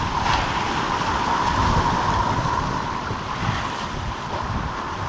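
Heavy sea surf breaking and washing ashore, with wind buffeting the microphone.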